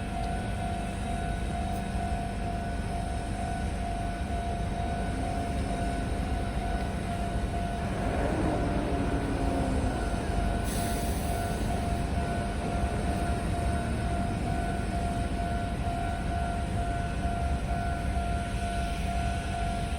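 Meitetsu electric train running, with a continuous rumble and a steady high tone; about eight seconds in a whine sweeps down in pitch over a couple of seconds.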